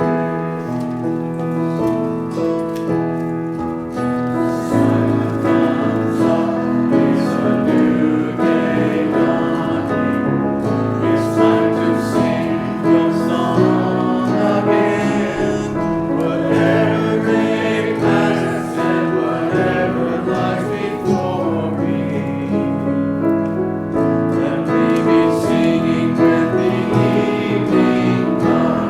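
Church worship music: piano-led band accompaniment with group singing.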